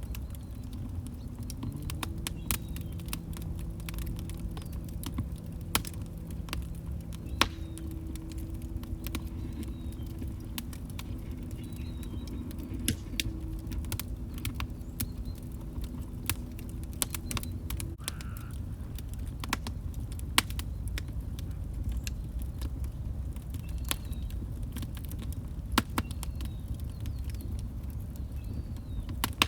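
Log fire crackling: irregular sharp snaps and pops over a low rumble of the flames, with a faint steady low hum through the first half.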